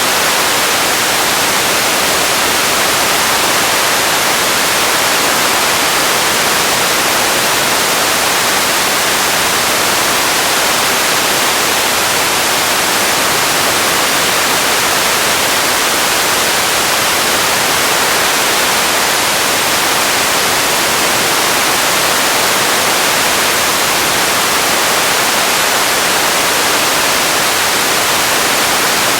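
Radio static: a steady, even hiss of untuned noise that does not change.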